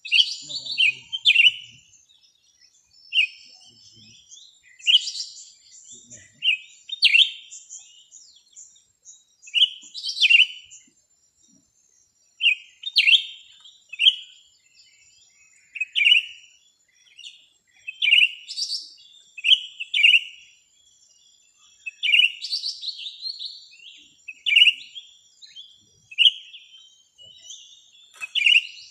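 Small birds chirping: short, sharp calls repeated about once a second, often in quick pairs, over a faint steady high whine.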